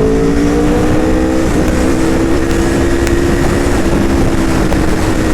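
Aprilia RSV4 RF's V4 engine pulling on the move at steady throttle with no gear change. Its note rises slightly over the first second and a half, then holds level, under heavy wind rush.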